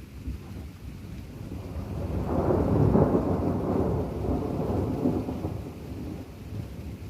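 Thunder rumbling through a rainstorm: a low rumble that swells about two seconds in, peaks near three seconds and slowly dies away, over steady rain.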